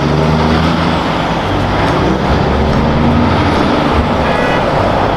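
Heavy truck engine running, a dense steady noise with shifting low engine tones, and a short high beep about four seconds in.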